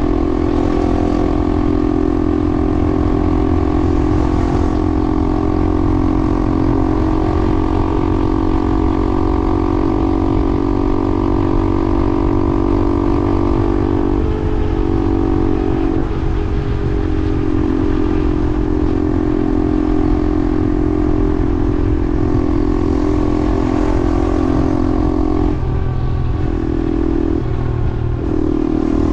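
A vehicle on the move: a steady motor hum over a heavy low rumble of wind and road noise. The hum's pitch shifts briefly about halfway through and again near the end.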